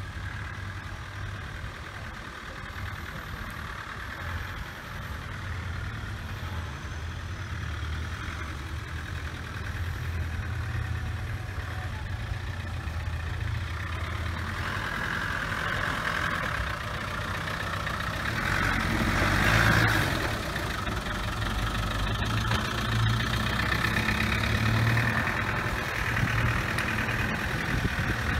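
Short-wheelbase Land Rover's engine running at low revs as the truck crawls off-road, steadily growing louder as it comes up to the microphone, loudest about two-thirds of the way through.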